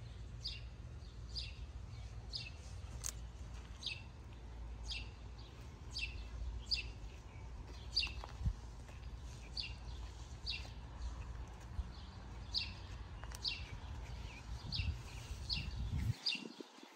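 A bird calling, one short sharp chirp repeated steadily a little more than once a second, over a low steady rumble.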